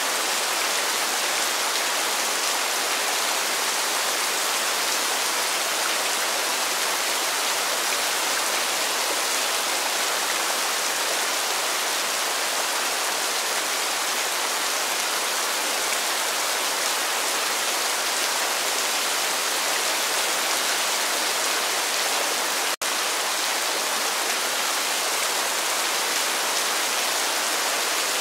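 Steady rain falling, an even hiss of drops, with the sound cutting out for a split second about three-quarters of the way through.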